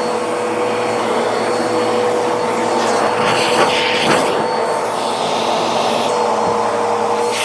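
Vacuum cleaner running steadily with a constant motor whine, rising in a few brief whooshing surges about halfway through as it works the floor.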